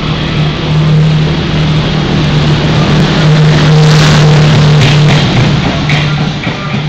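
Passenger train coaches passing close at speed: a loud rush of wheels on rail over a steady low hum, with a run of clicks from the wheels over the rail joints at its loudest, about halfway through.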